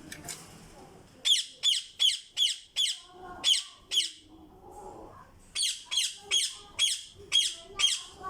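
Pet parrots giving short, harsh squawks that drop in pitch, in quick runs of about three a second with a pause in the middle.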